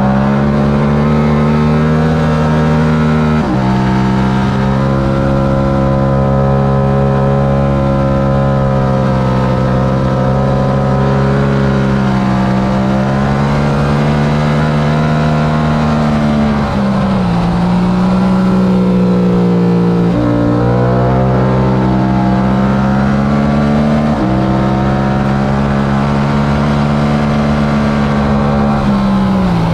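Yamaha R7's stock 689 cc parallel-twin engine running hard at racing revs, with sudden pitch steps at gear changes several times and a drop in revs about two-thirds of the way through and again near the end as the bike slows for corners.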